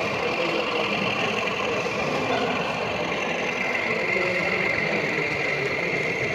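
Steady diesel engine sound from a sound-fitted model railway locomotive, idling.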